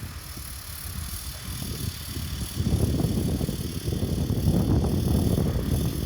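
Heavy earthmoving machinery rumbling, growing louder about two and a half seconds in.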